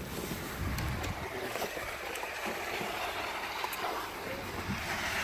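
Outdoor wind noise in a snowstorm: a steady windy hiss with irregular low rumbling buffets on the microphone.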